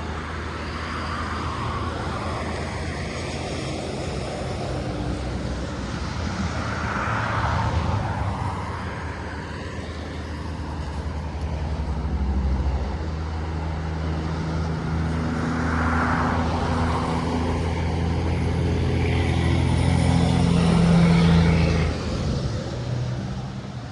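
Steady engine drone under rushing noise, growing louder in the second half and easing off near the end.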